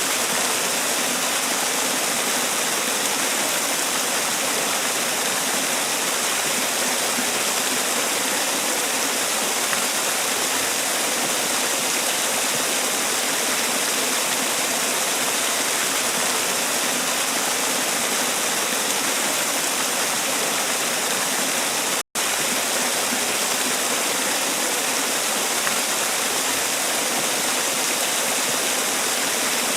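Man-made waterfall: water pouring and splashing in a steady, even rush. It cuts out for an instant about two-thirds of the way through.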